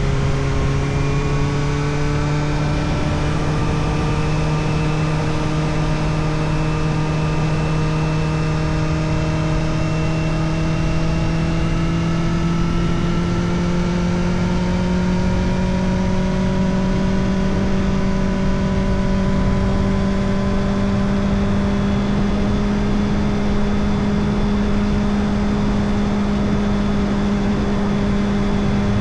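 Kawasaki Ninja ZX-4RR's 399 cc inline-four running through an Arrow Indy Race Evo titanium exhaust with its dB killer fitted. The engine is held in one gear, its note rising slowly and steadily as the revs build.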